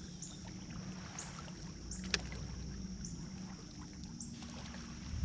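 Quiet ambience on the water from a kayak: a steady low rumble, a steady high tone with short chirps about once a second, and a single sharp click about two seconds in.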